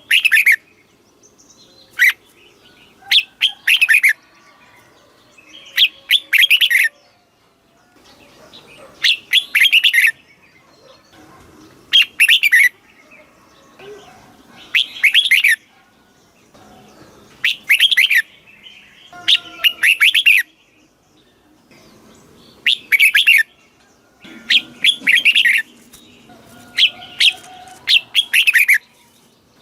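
Red-whiskered bulbul singing loud, short, warbled song phrases, one every two to three seconds, in the southern master-song style used to train caged bulbuls.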